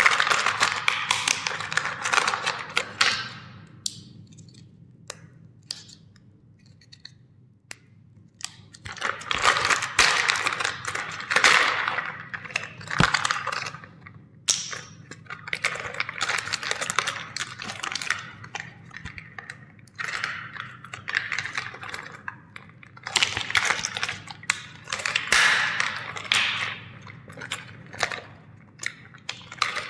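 Plastic toys cracking and crunching as they are crushed, in several bouts of crackling and snapping with quieter gaps between, over a faint low hum.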